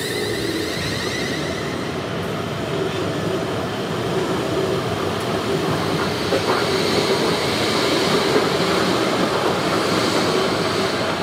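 Thameslink electric train running at the platform: a steady rumble of motors and wheels that grows a little louder about halfway through.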